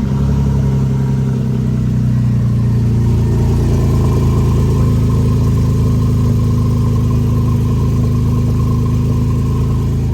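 Porsche 911 (997.1) flat-six engine idling steadily just after being started.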